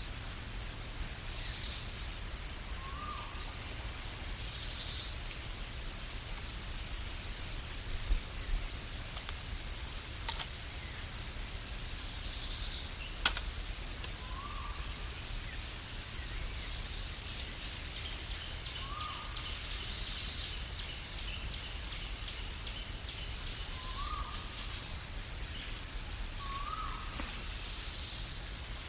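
A steady, high, pulsing chorus of insects, with a bird giving a short rising call every few seconds and one sharp click about halfway through.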